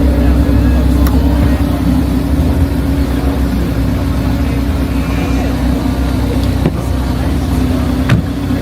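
Steady low drone of a running vehicle engine, with a constant hum and only small clicks over it.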